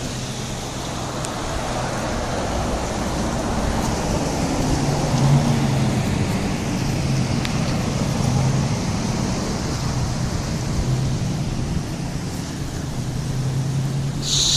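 Road traffic in dust-storm wind: a steady rush of wind and tyre noise, with the low hum of passing car engines swelling and fading.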